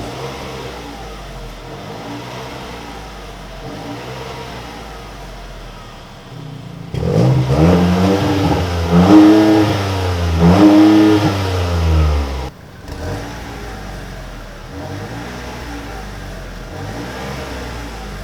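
Exhaust of a Chevrolet Malibu 1.35-litre turbo three-cylinder with a dual variable (valved) exhaust, revved repeatedly. It starts in the quieter tone with the valves closed, turns suddenly much louder about seven seconds in as the valves open, with three rising-and-falling revs, and drops suddenly back to the quieter tone about twelve seconds in.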